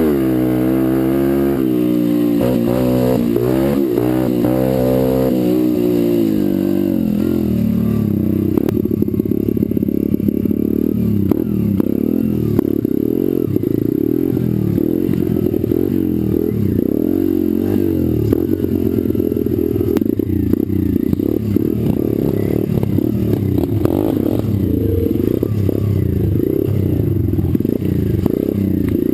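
Pit bike engine revving up and down under throttle for the first several seconds, then at about seven seconds dropping to lower, uneven running with frequent rattles and knocks from the bike.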